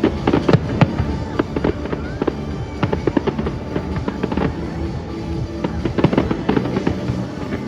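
Fireworks display: a rapid run of sharp bangs and crackles, many a second, over music with sustained notes.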